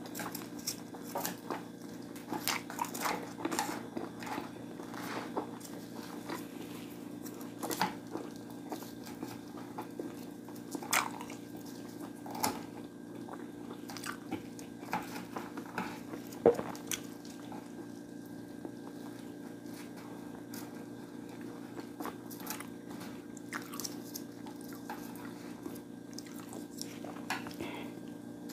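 Close-miked eating: irregular biting, crunching and wet chewing sounds from a mukbang meal of fried chicken, fish cake and macaroni, over a steady low hum.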